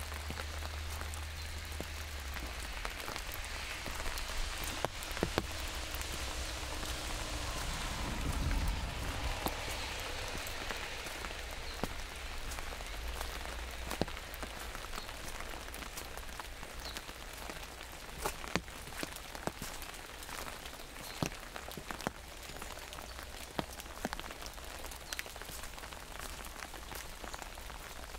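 Steady rain falling on an umbrella overhead: an even hiss with many sharp ticks of single drops striking the canopy. A low rumble swells briefly about eight seconds in.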